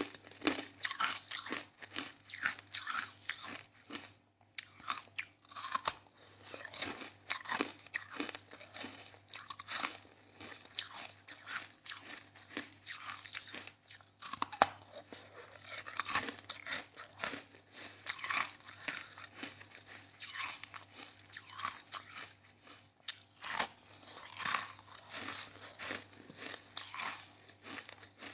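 A person chewing mouthfuls of soft crushed ice close to the microphone: rapid, irregular crunching bites, with a brief pause about four seconds in.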